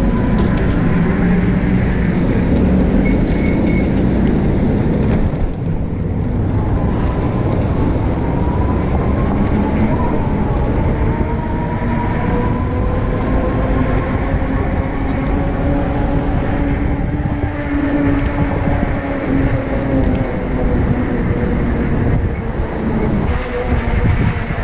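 Wind rushing over the microphone while riding an e-bike, with a steady whine that slowly rises in pitch and then levels off.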